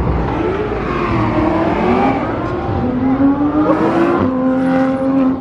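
Car engine accelerating hard, its pitch rising steadily for about four seconds, then dropping and holding steady for the last second.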